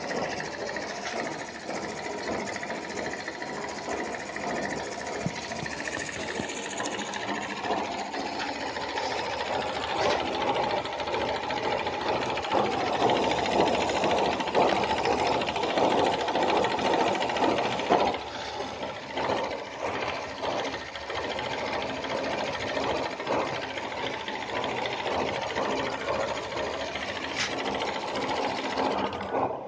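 Small homemade model steam engine running with a fast, even mechanical clatter, swelling a little toward the middle and easing off slightly past halfway.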